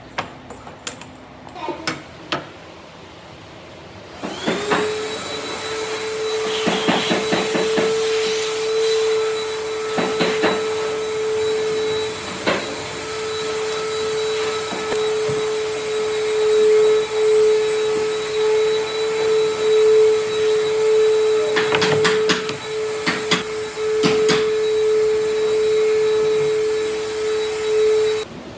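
An electric motor starts about four seconds in and runs steadily with a constant whine, with scattered knocks and taps over it, then cuts off abruptly near the end. A few sharp clicks come before it starts.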